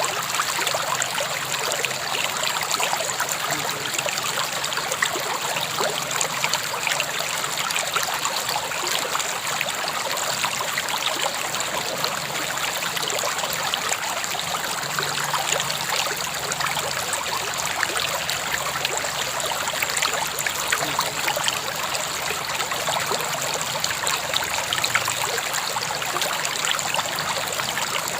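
Steady flow of a river running over rocks, a continuous bubbling and splashing rush that does not change.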